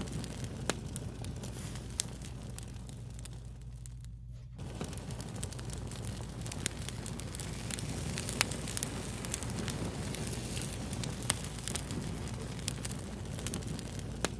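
Wood fire crackling: irregular sharp pops and snaps over a steady hiss and a low rumble. The hiss briefly drops out about four seconds in.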